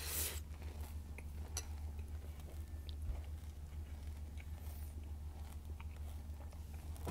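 Close-up chewing of a spoonful of Vector cereal in milk: soft, scattered crunches with a mouth closed over the food, over a steady low hum.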